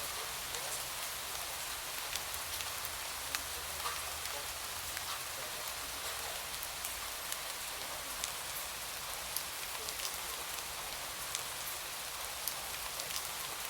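Steady rain falling, an even hiss with many scattered individual drops ticking.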